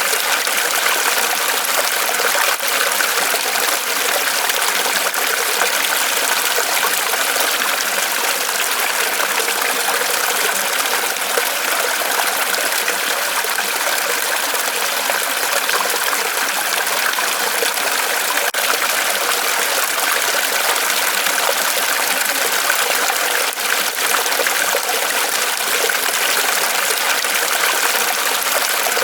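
Small waterfall of water trickling and splashing steadily off a tree trunk.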